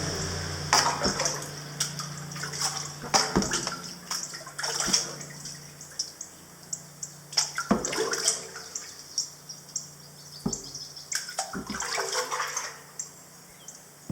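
Kayak paddle strokes: a Werner composite double-bladed paddle dipping into the creek every second or two, with water splashing and dripping off the blades.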